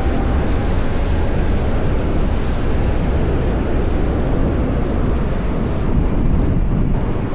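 Steady wind noise rushing over the microphone, with road and traffic noise, while riding an electric motorcycle.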